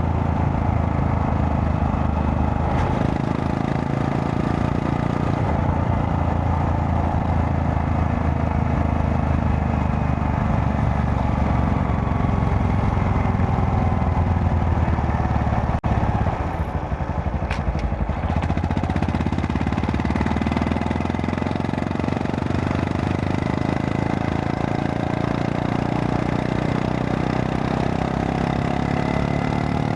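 Honda Monkey 125's single-cylinder four-stroke engine running steadily under way. About sixteen seconds in there is a click and a brief drop in level as the engine note falls, then it rises again.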